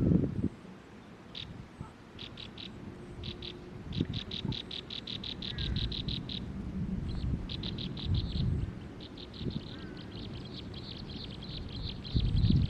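A bird calling in fast series of short, high, evenly repeated notes that run together into long rattling trills. There are brief low rumbles at the start and near the end.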